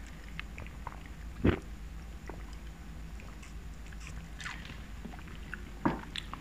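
Soft mouth sounds of chewing tteokbokki rice cakes, with small clicks and one thump about a second and a half in. Around four and a half seconds in comes a short sip through a drinking straw.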